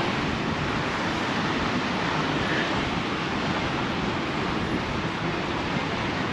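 Steady rushing noise of wind on the microphone of a moving bicycle rider, with the wash of surf behind it.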